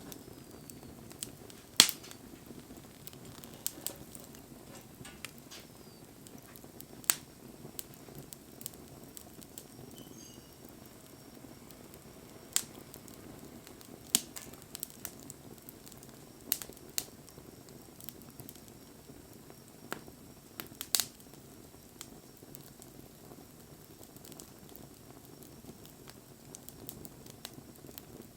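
Wood campfire burning, with a low steady rush of flame under scattered sharp pops and crackles at irregular intervals, the loudest about two seconds in.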